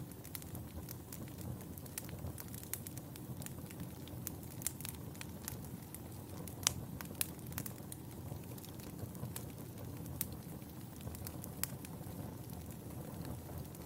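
Wood fire burning in a fireplace: a steady low rush of flames with frequent irregular sharp crackles and pops, one louder pop about seven seconds in.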